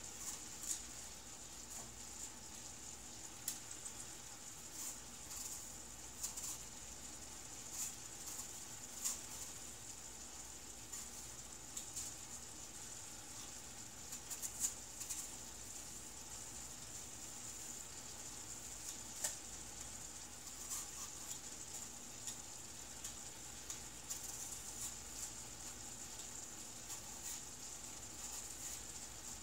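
Ground beef frying in a skillet: a faint steady sizzle with irregular crackles and pops of spattering fat.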